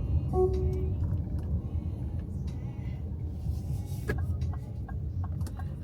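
Car cabin road noise while driving, a steady low rumble, with a short car-horn-like toot about half a second in.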